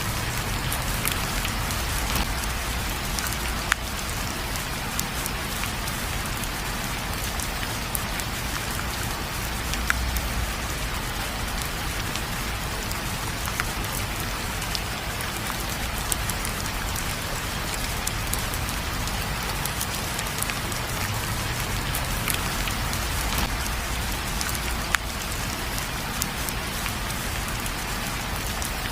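Steady rain falling on a surface, with scattered sharp drop ticks over an even hiss and a low rumble underneath.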